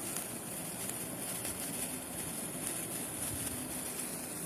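Steady fizzing hiss from a lit homemade volcano.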